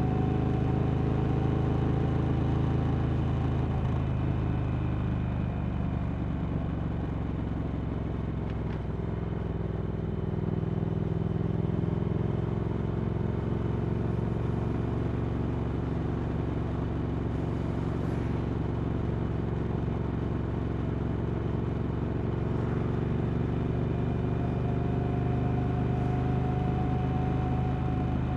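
Triumph Speed Twin 1200's parallel-twin engine running steadily through Vance & Hines slip-on exhausts, with small changes in engine speed about four and eleven seconds in.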